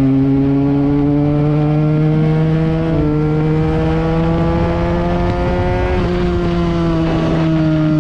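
Benelli TNT 300 parallel-twin engine through an aftermarket Akrapovič exhaust, held at a steady engine speed that slowly creeps up in pitch, with small jumps in pitch about three and six seconds in.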